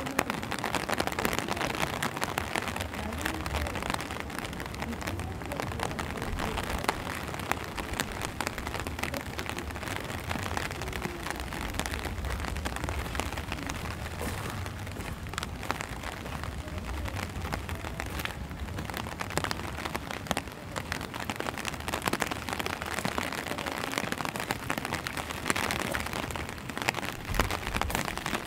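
Steady rain falling on leaves and the ground, with many individual drops heard as small close ticks.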